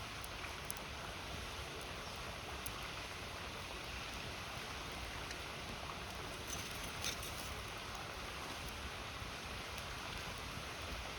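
A river flowing with a steady rush, and a few sharp pops from a wood campfire.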